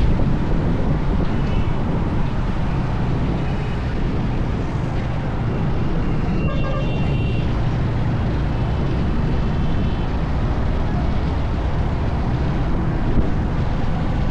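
Wind buffeting the microphone and the steady rumble of a motorbike ride through city traffic, with a few faint high tones in the traffic.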